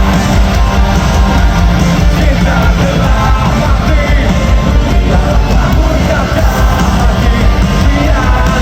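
Live rock band playing loudly: a singer's voice over the band's guitars.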